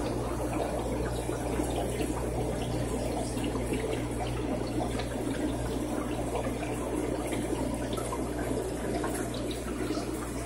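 Aquarium water trickling and splashing steadily, as from a filter outflow, over a low steady hum.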